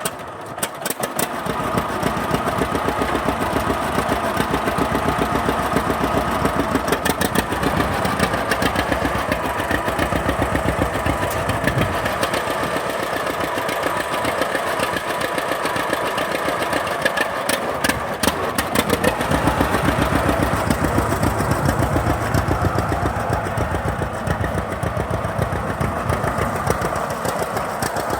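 John Deere 60's two-cylinder engine comes up to speed over the first couple of seconds, then runs steadily with an even, rapid beat of exhaust pulses.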